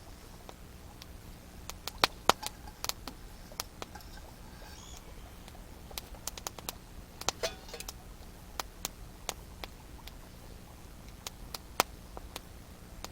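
Wood campfire crackling: irregular sharp pops and snaps at uneven intervals, a few louder ones standing out.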